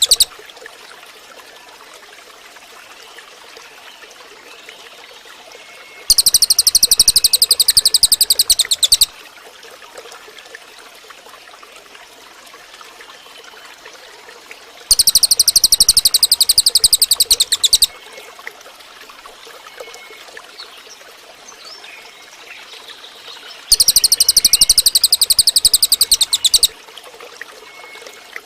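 Cililin bird singing: three loud bursts of about three seconds each, every one a very fast trill of high, sharp repeated notes, coming back roughly every nine seconds. Between the bursts only faint background chirps are heard.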